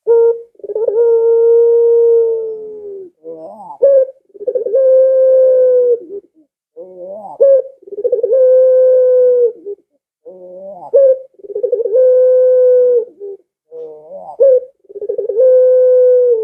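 Domestic ringneck dove (burung puter, a long-cooing 'pelung' type) cooing loudly. Each phrase opens with a quick rolling stutter and ends in a long, steady coo held for about two seconds. The phrase repeats every three to four seconds, five times.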